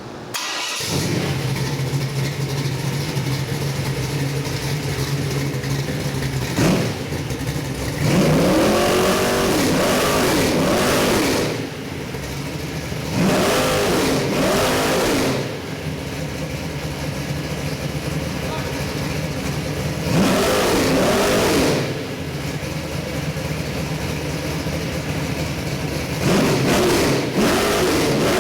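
Oldsmobile 455 V8 crate engine with a mechanical roller cam starting up, catching within the first second, then idling with a steady note between several revs that rise and fall over two to three seconds each. Its valvetrain runs quietly, like a hydraulic roller.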